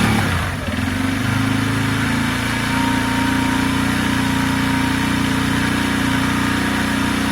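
Benelli Keeway 125cc motorcycle engine running just after its first start following a long sit, settling about a second in from revs into a steady idle.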